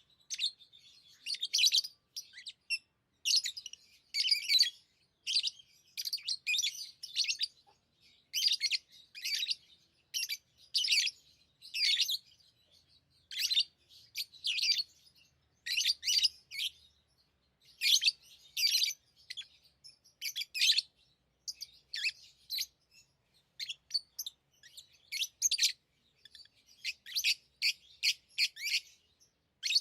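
Pet lovebirds chirping in short bursts of high, shrill chatter, one burst after another with brief gaps between.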